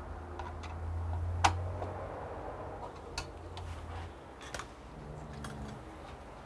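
Several sharp clicks and taps from small hardware being handled, the loudest about a second and a half in. Underneath is a low hum that stops about four seconds in.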